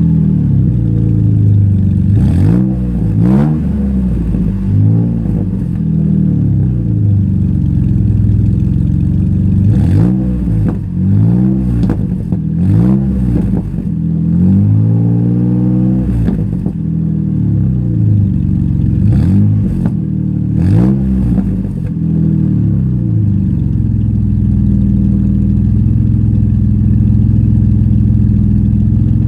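Jeep Wrangler's 3.8-litre V6, cold, through an MBRP off-road exhaust, revved in a dozen or so quick blips that rise and fall, then settling to a steady idle for the last several seconds.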